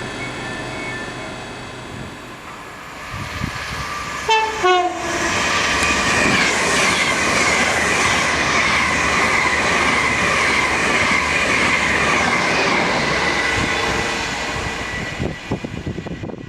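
A train sounds a short two-tone horn, high note then low, then passes close by with loud, steady rail and wheel noise and a clickety-clack, which dies away near the end.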